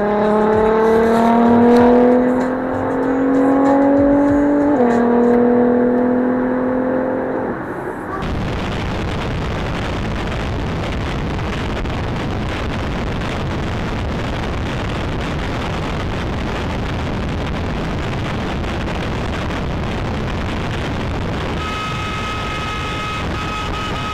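A motorcycle engine accelerating, its pitch rising and then dropping at a gear change about five seconds in. After about eight seconds the engine gives way to steady, loud wind noise on the microphone, and a thin steady tone joins near the end.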